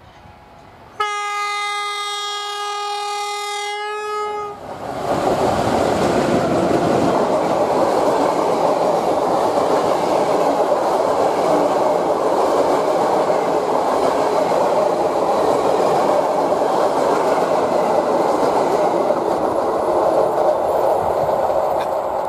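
EU07 electric locomotive sounds one steady horn blast for about three and a half seconds as it approaches, then the locomotive and its train of old passenger coaches pass close by with loud, steady wheel-on-rail rolling noise.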